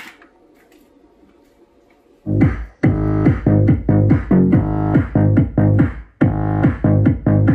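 A repaired 50 cm bass woofer with a four-layer cone, its broken magnet just replaced, being test-played with Vietnamese nonstop electronic dance music. A faint hum comes first, then the music kicks in about two seconds in with a heavy, pounding bass beat. The music drops out for a moment near six seconds and comes straight back.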